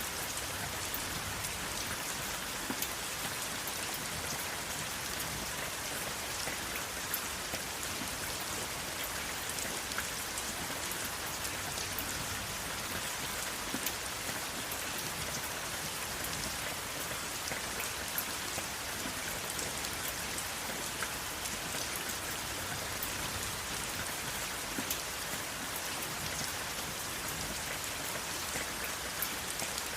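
Steady rain falling, an even hiss with many small sharp drop ticks scattered throughout, and no thunder.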